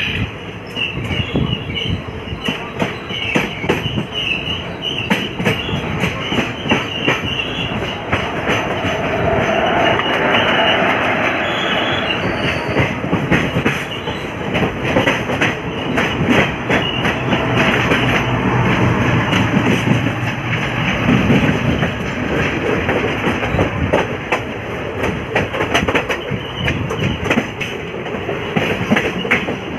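Passenger train coach running along the track, heard from its open doorway: steady wheel and rail noise with many quick clicks as the wheels pass over rail joints.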